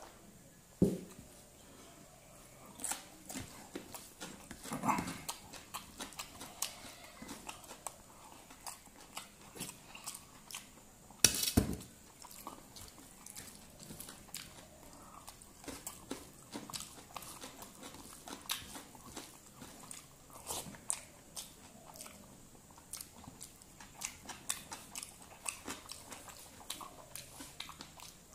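Close-miked eating sounds of a person chewing rice, dal and vegetable fry eaten by hand, with a dense run of small wet clicks and smacks, and fingers mixing food on a steel plate. Two louder knocks stand out, one about a second in and one about eleven seconds in.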